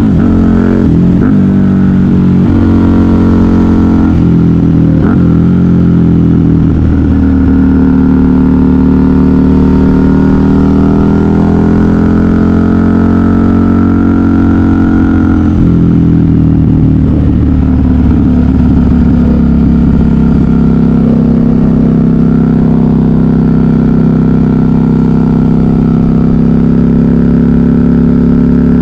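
KTM 990 Super Duke R's V-twin engine through a custom exhaust under way: the revs rise and fall quickly several times in the first few seconds, then hold high and climb slowly before dropping off about halfway, running steadier and lower after that.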